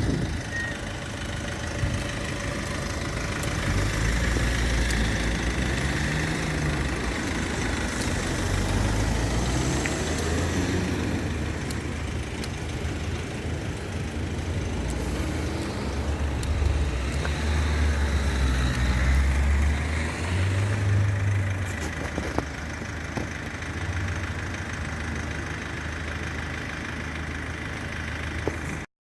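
Road traffic: car engines idling and moving slowly past, a low rumble that swells and fades several times as vehicles come through.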